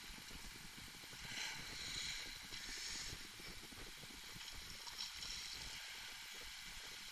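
Faint water washing against a kayak hull, with a few soft swishes.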